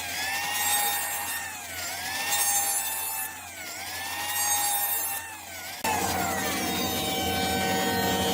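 Electric power tool cutting wood, its motor pitch sagging and recovering with each pass, about every second and a half. About six seconds in the sound changes abruptly to a steadier motor tone with falling glides.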